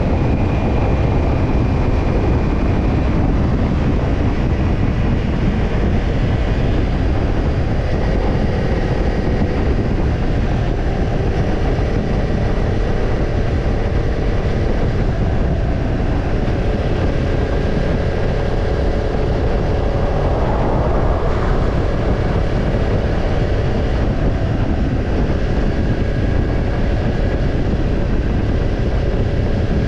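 Kawasaki Ninja 250's parallel-twin engine running steadily through a BEET NASSERT Evolution Type II black titanium slip-on muffler while riding, with a heavy rush of wind over it.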